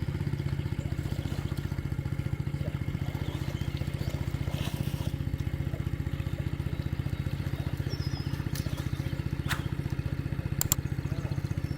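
A small engine running steadily at an even speed throughout, with a few sharp clicks near the end.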